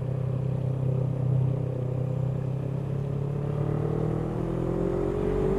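Honda CBF500 parallel-twin motorcycle engine running while the bike is ridden, its pitch rising steadily over the last couple of seconds as it speeds up.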